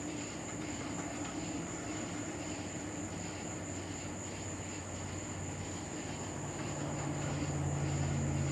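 Blacksmith's forge running with a steady drone while a nail heats in the fire, growing a little louder near the end.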